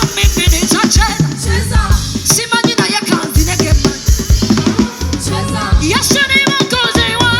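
Worship band music: a drum kit keeps a steady beat with snare and bass drum over a low bass line, while a wavering melody runs above.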